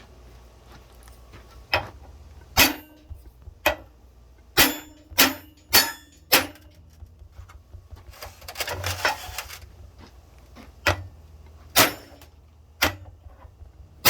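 Sharp metal-on-metal taps, about ten, each with a brief ring: the flat side of a tool hitting a chunk of steel laid flush against a hydraulic cylinder's gland nut so its face is not damaged. A short scraping rustle about eight seconds in.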